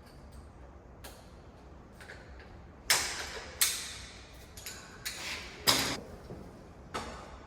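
A series of sharp knocks and clatters of gear being handled and moved around, with four louder bangs from about three seconds in and smaller taps between.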